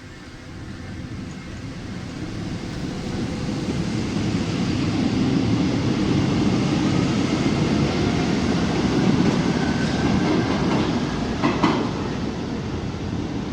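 Paris Métro train running through the tunnel and station, its rumble building over the first few seconds and then holding loud, with faint whining from the wheels or motors. A sharp clack comes near the end.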